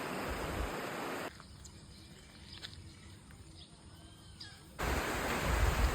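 Outdoor ambience: a steady rushing noise, then a quieter stretch with a few faint bird chirps, and about five seconds in the rushing noise returns louder with a low rumble.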